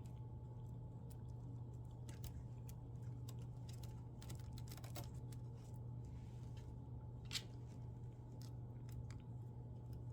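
Faint scattered clicks and handling of small parts over a steady low hum, with one sharper click about seven and a half seconds in.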